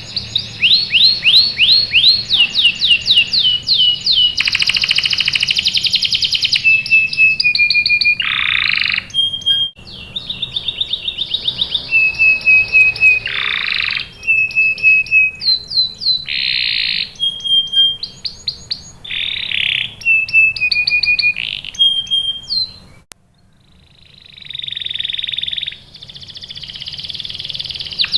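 Domestic canary singing a long song of fast trills of rising notes, held whistled notes and buzzy rolls, with a brief break near the end.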